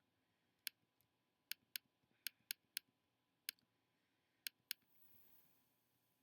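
Computer mouse clicking: about nine sharp, separate clicks, some in quick pairs.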